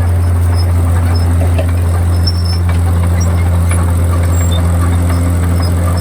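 Komatsu D51PX bulldozer's diesel engine running steadily under load, a loud constant low drone, with faint high squeaks scattered through it.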